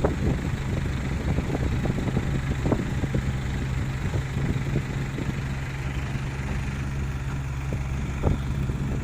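Dump truck engine idling steadily, with scattered small knocks and clatter over it.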